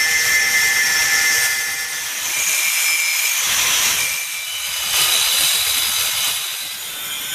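Doliz BA 370 electric angle grinder running under load, its disc working against material with a continuous high, gritty whine that shifts in pitch.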